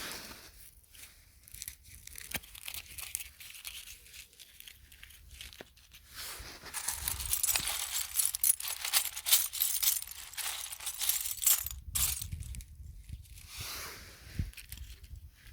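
Dry rustling and crackling, full of small clicks, as of something being handled or crumpled; it grows loudest in the middle and then eases off.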